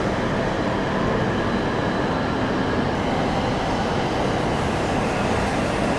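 Shinkansen high-speed train moving slowly alongside a station platform: a steady rumbling noise of the train rolling past, with no clicks or squeals standing out.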